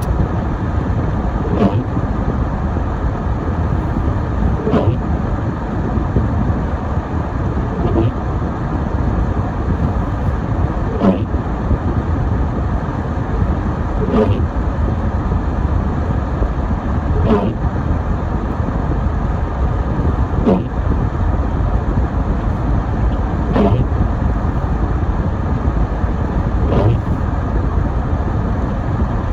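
Steady road and engine rumble heard from inside a car driving on snowy roads, with a short squeaky sweep about every three seconds from the windshield wipers working at an intermittent setting.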